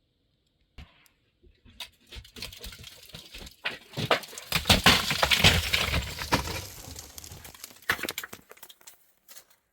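Dry firewood sticks crackling and snapping. Scattered sharp cracks build into a dense crackle about halfway through, then thin out to a few last snaps.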